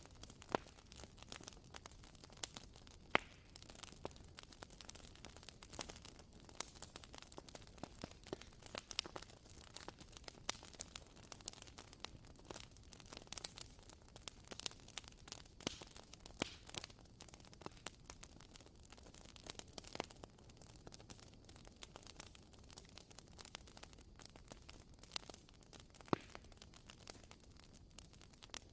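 WoodWick candle's wooden wick crackling like a small campfire: scattered soft pops and ticks, with a few louder snaps.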